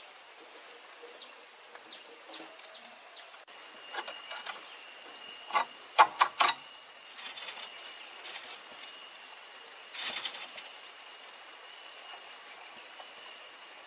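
Insects droning steadily at a high pitch, with sharp knocks cutting through: one about four seconds in, a quick cluster of four around six seconds, and a brief rattle near ten seconds.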